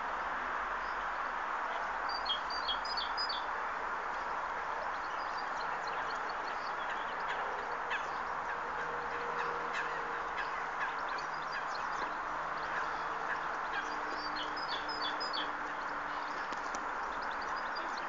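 Small birds chirping over a steady background hiss, with a quick run of high, rapid notes about two seconds in and again about fourteen seconds in.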